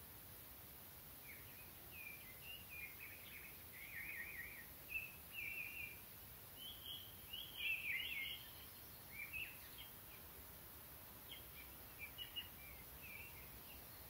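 Songbird singing faintly in a string of short, varied chirping phrases over a steady hiss of outdoor background noise.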